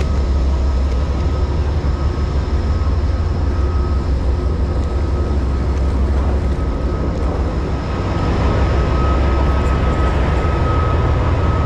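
Amtrak passenger train standing at the platform: a loud, steady low diesel rumble with a thin steady whine above it.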